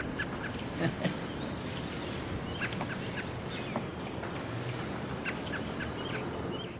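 Birds chirping, many short scattered calls from several birds over a steady background hiss, fading out at the very end.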